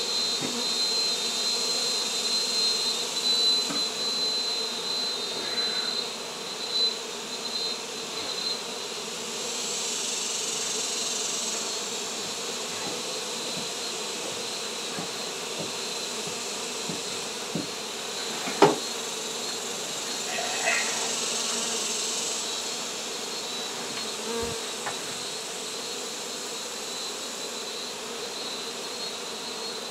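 Swarm of honey bees buzzing steadily during a hive cut-out. A single sharp knock sounds about two-thirds of the way through.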